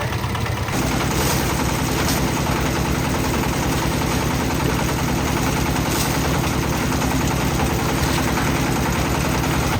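Engine of a concrete mixer running steadily, its note growing a little fuller about a second in, with a few brief knocks over it.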